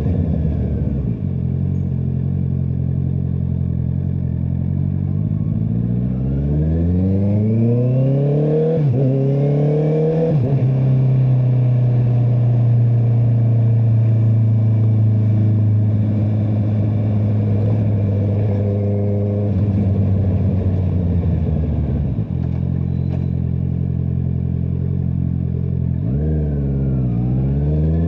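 Honda CBR650R's inline-four engine through an Akrapovic exhaust, under way: the engine note climbs hard through two quick upshifts about nine and ten seconds in, holds a steady cruise, eases off, then dips sharply and climbs again near the end.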